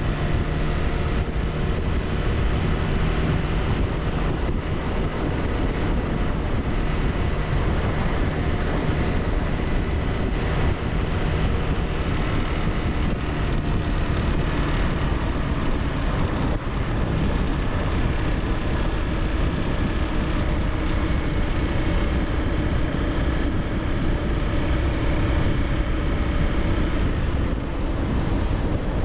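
Honda CBR300R's single-cylinder engine running under way, its pitch drifting slowly with throttle, mixed with wind rush over the microphone.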